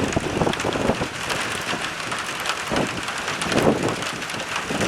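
Rain and wind in a summer storm. The wind buffets the microphone with a low rumble, over many small sharp hits of raindrops.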